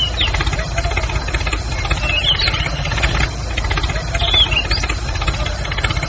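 Diesel tractor engine idling with a steady low knocking throb, with a few short high chirps over it.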